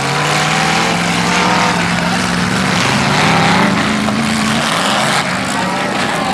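Demolition derby cars' engines running and revving together, one holding a steady drone that climbs in pitch about halfway through while others rise and fall.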